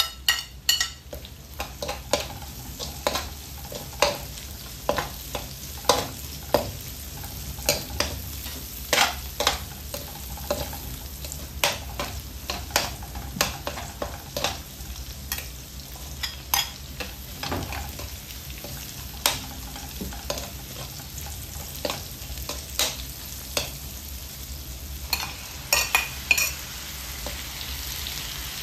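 Sliced onions and garlic sizzling in oil in a metal wok, stirred with a metal spatula that scrapes and clacks against the pan in irregular sharp knocks, often several a second.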